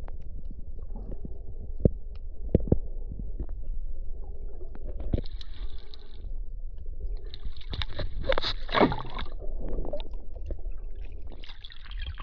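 Water sloshing and gurgling around a camera in the sea while snorkelling, over a constant low rumble with scattered clicks, and two louder rushing, splashy bursts in the middle.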